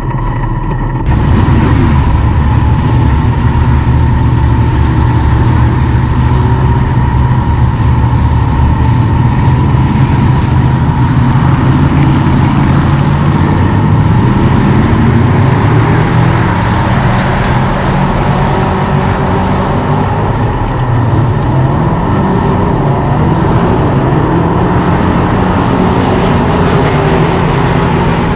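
Dirt-track race car engine running hard at high revs, its pitch rising and falling as it accelerates and lifts, starting abruptly about a second in.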